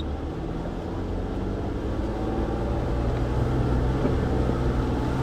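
Jeep engine running at low revs as the Jeep crawls over trail obstacles in four-wheel-drive low range, a steady drone that rises slightly in pitch and loudness about two seconds in.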